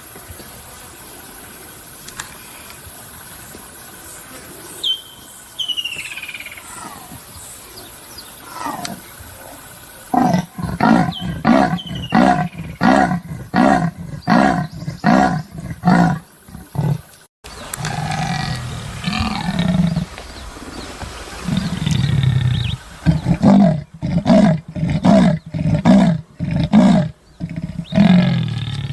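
Leopard giving its sawing call: a series of rhythmic grunts at about two a second. The first bout starts about ten seconds in after a quiet stretch and breaks off suddenly; a second bout follows a few seconds later.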